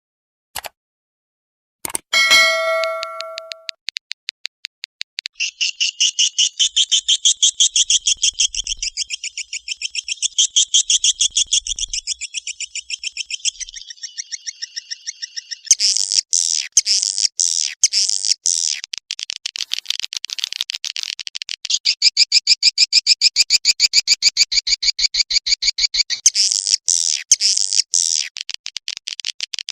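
Swiftlet calls: a fast, high twittering of chirps repeated many times a second, in phrases that shift every few seconds. About two seconds in, a single bell-like chime rings and fades first.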